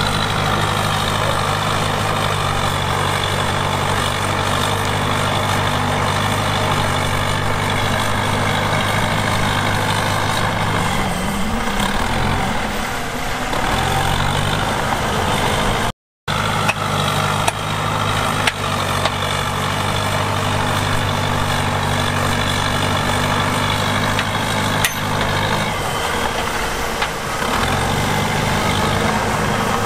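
Diesel engine of heavy earthmoving machinery running steadily. Its pitch sags and recovers twice, as under changing load. The sound is split by a brief silent cut about halfway through.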